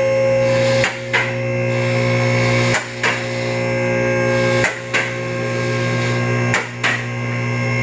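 Electric-hydraulic car lift's pump motor humming steadily as it raises a car. About every two seconds there is a sharp click and a brief dip in the hum.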